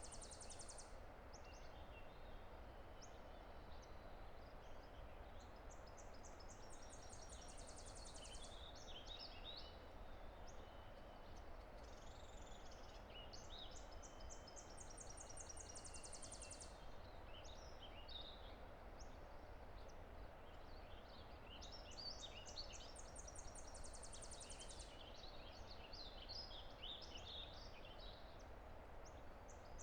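Steady rush of a distant river under evening birdsong. One bird repeats a high song of quick notes ending in a rapid trill about every eight seconds, with scattered chirps from other birds in between.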